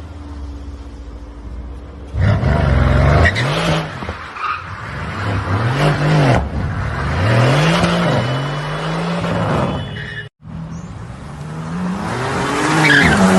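A car engine revving up and down over and over, with tyre skidding under it. It breaks off abruptly about ten seconds in, then starts again.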